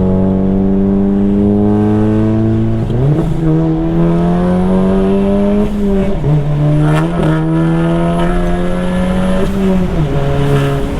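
EQT Stage 2 tuned MK7 Golf GTI's turbocharged four-cylinder engine under hard acceleration, its pitch climbing steadily in each gear and dropping at shifts about three, six and ten seconds in.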